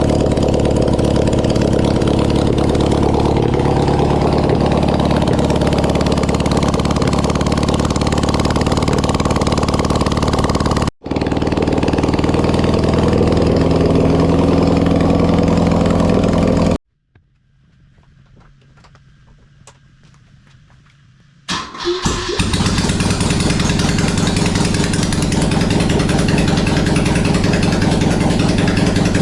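Air-cooled 1980s BMW boxer twin engine running with a steady, even beat. Past the middle it goes quiet for about four seconds, then restarts with a few sharp bangs and settles back into running.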